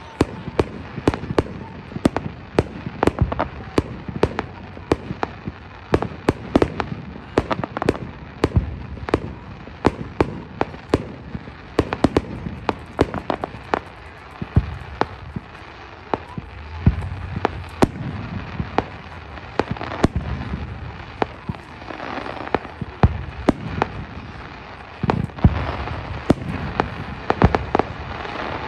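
Aerial fireworks going off in rapid succession: a continuous string of sharp bangs, about two to three a second, as shells rise on trails and burst.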